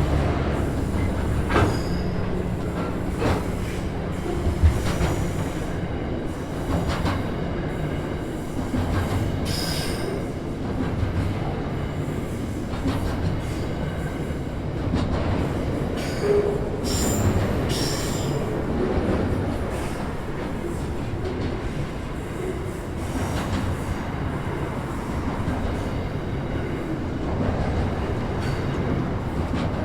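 Freight train wagons rolling past on the track: a steady rumble with scattered sharp clicks from the wheels, and a few brief high wheel squeals about two-thirds of the way through.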